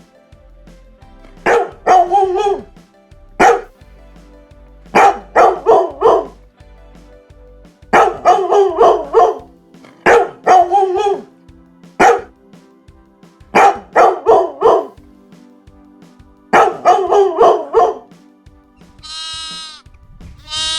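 A dog barking in repeated bouts of two to five sharp barks, with short pauses between the bouts.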